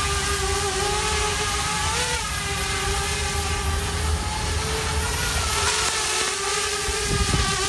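Quadcopter drone hovering in flight: a steady propeller whine that wavers slightly in pitch, with wind buffeting the microphone. The low wind thumps get heavier near the end.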